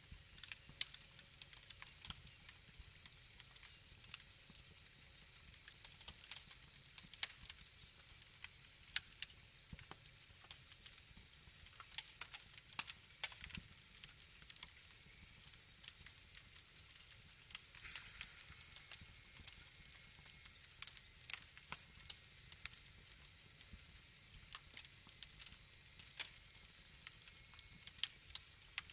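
Wood fire crackling: irregular sharp pops and snaps over a faint hiss, with a short burst of hissing about two-thirds of the way through.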